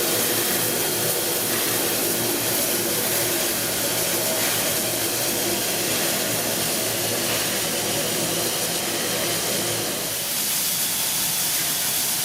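Steam hissing steadily from Victorian R class 4-6-4 Hudson locomotive No 766, easing slightly about ten seconds in.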